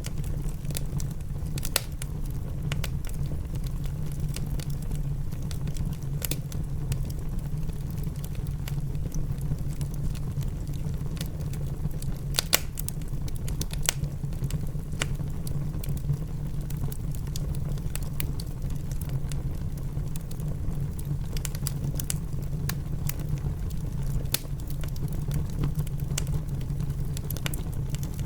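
Wood fire crackling in a fireplace, irregular sharp pops over a steady low rumble, with rain sounding underneath.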